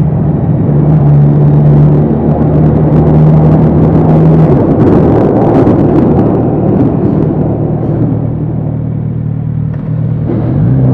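Kawasaki Z900RS inline-four engine and exhaust on the move, running steadily. It gets louder and rougher under throttle from about two to six seconds, eases off, then rises in pitch again near the end.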